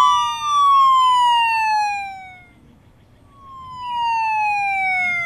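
Emergency-vehicle siren sound effect: two long wailing sweeps that fall slowly in pitch. The first fades out about two seconds in and the second begins about a second later.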